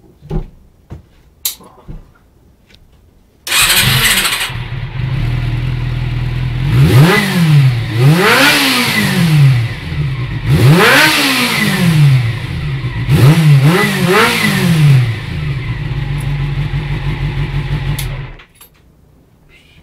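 Honda CB400 motorcycle engine started about three and a half seconds in, settling to a steady idle. The throttle is blipped five times, the revs rising and falling sharply each time, before it idles again and is switched off suddenly near the end.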